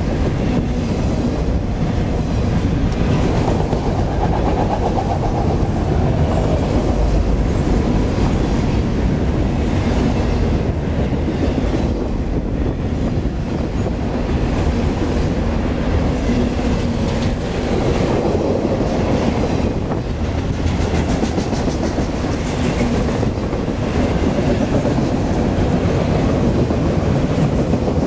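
CSX freight train cars, including autoracks, rolling steadily past close by. Their wheels rumble and clack over the rails.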